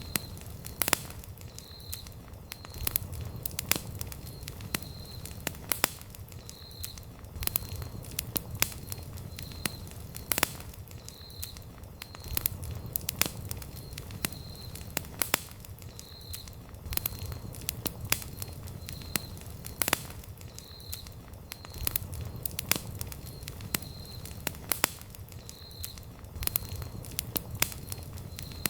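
Wood campfire crackling, with irregular sharp pops and snaps over a low, steady rush of burning flames.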